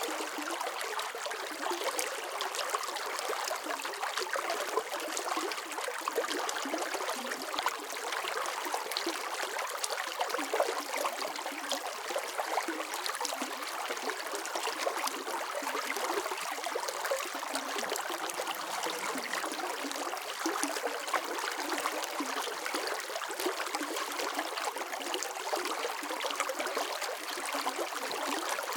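Running water flowing steadily, a shallow stream-like babble with fine splashes and trickles, with no low rumble.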